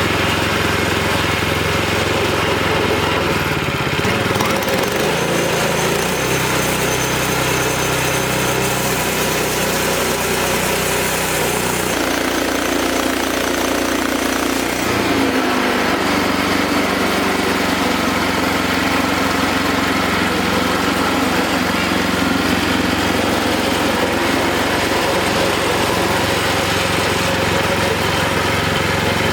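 Small engine of a Wood-Mizer LX25 band sawmill running steadily, its pitch shifting a few times partway through.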